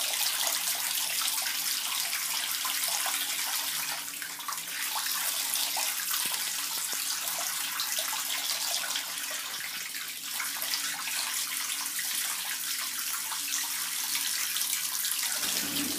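Water running from an open tap in a steady stream, splashing into the basin, with a brief dip about four seconds in.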